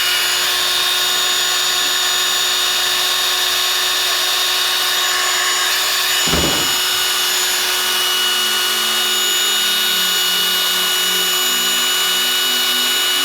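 Electric power tool running steadily at full speed, a loud high-pitched whine with several steady tones, while exhaust brackets are being made for a muffler delete.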